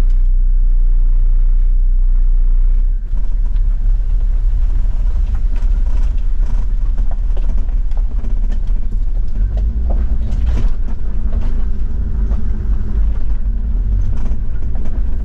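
Toyota Land Cruiser 70's diesel engine running, with a heavy low rumble. It is steady for the first three seconds or so, then turns rougher and uneven, with scattered knocks.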